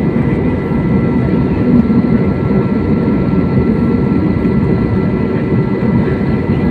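Airliner engines heard from inside the passenger cabin: a loud, steady rumble with a thin high whine held throughout.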